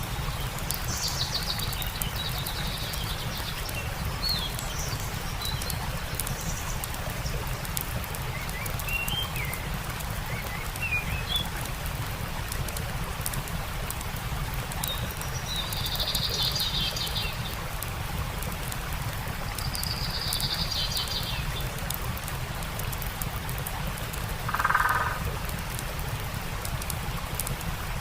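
Steady rushing of a stream under the fine popping crackle of a campfire, with birds calling every few seconds: short chirps and trilled calls, and one louder, lower call a few seconds before the end.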